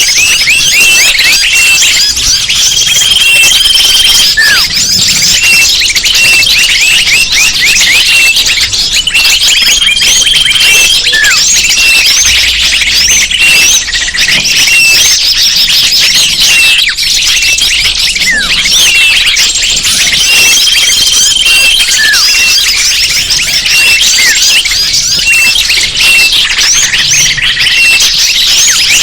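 Bird-lure recording: a dense chorus of many small birds chirping and twittering in quick, overlapping calls, with a short, held, level high note returning every several seconds.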